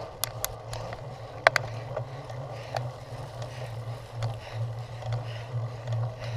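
Cyclocross bike being ridden over rough ground: a steady low rumble with scattered sharp clicks and rattles from the bike, the loudest about a second and a half in.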